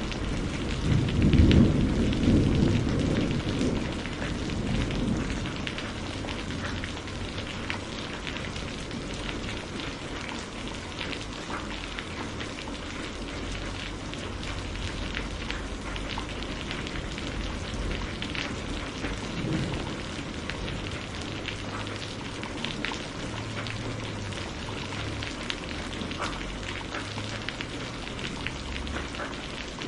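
Steady rain falling, with scattered individual drops ticking through the hiss. A low rumble of thunder swells in the first few seconds and fades away, and a fainter rumble comes near the middle.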